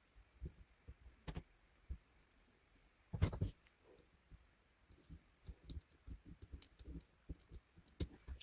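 Scattered light clicks and knocks of small hard parts being handled on a workbench, with a louder clatter just after three seconds in and a run of quick small taps in the second half.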